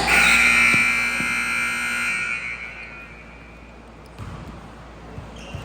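Gym scoreboard buzzer sounding loudly for about two seconds, then fading away, followed by a few faint thumps.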